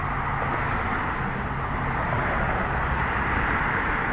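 Departing jet airliner heard from a distance: a steady rushing jet-engine noise with a low rumble underneath, holding level throughout.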